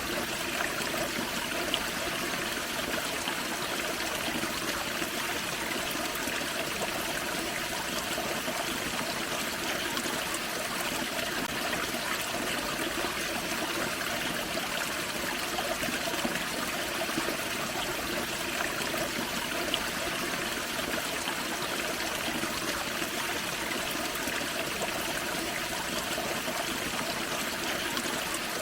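Small waterfall on a forest creek: water spilling and splashing over rocks in a steady, unbroken rush.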